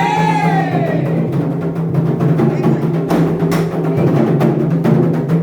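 Candomblé atabaque drums playing a steady, dense rhythm, with a sung line trailing off in the first second.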